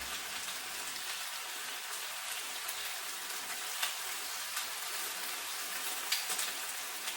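Chicken wings shallow-frying in hot oil: a steady sizzle with scattered small pops and crackles, the wings browning golden on one side.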